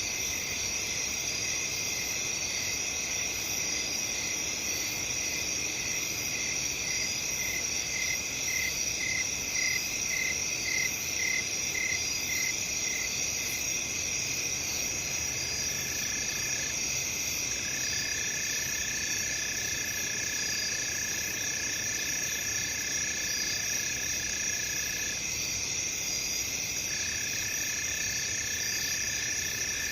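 Night chorus of crickets and other insects: several steady high-pitched trills layered together. For a few seconds a chirp pulses about twice a second, and a lower continuous trill comes in around the middle, breaking off briefly twice.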